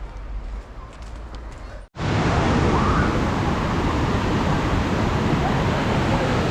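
Waterfall: water rushing and splashing as a loud, steady hiss-like noise that starts abruptly about two seconds in, after a moment of quieter outdoor background.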